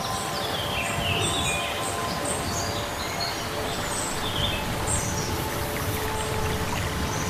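Birds chirping in short, scattered calls over a steady background noise, with a faint steady hum underneath.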